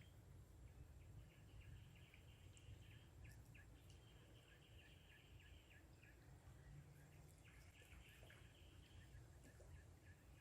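Faint outdoor ambience: a continuous high chirping chorus with short separate chirps, over a low rumble.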